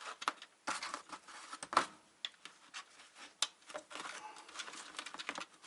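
Irregular clicks, scrapes and rattles of plastic and metal parts being handled and pried, as stuck metal outlet contacts are worked out of a UPS's plastic housing. There is a sharper click a little under two seconds in, and another about halfway through.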